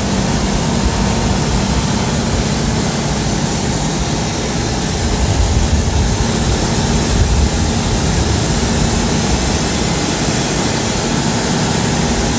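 Diesel engine of a Khlong Saen Saep canal boat running steadily under way: a loud, even rumble with water and wind noise, and a thin high whine over it.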